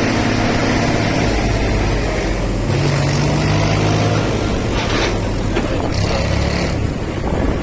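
Tractor engine running steadily under load, its pitch stepping up and down a few times.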